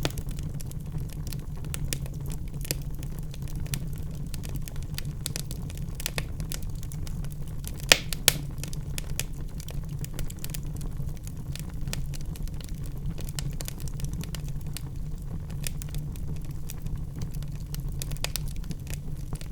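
Log fire burning in a fireplace: a steady low rumble of flames with frequent small crackles and snaps, and two louder pops close together about eight seconds in.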